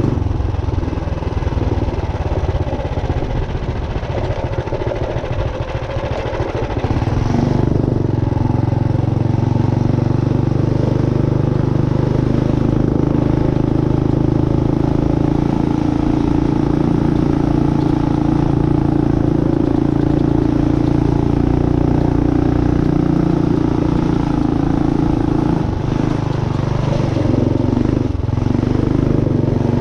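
Race-built Tillotson 212 single-cylinder four-stroke engine on a minibike running under way. It is quieter and uneven for the first several seconds, then picks up to a louder, steady note about seven seconds in, easing off briefly twice near the end.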